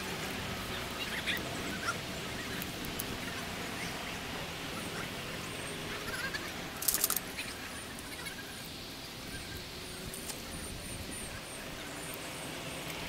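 Birds calling over a steady outdoor hiss: a few short chirps early and midway, then a row of faint high chirps in the second half. A brief cluster of sharp clicks about seven seconds in is the loudest sound.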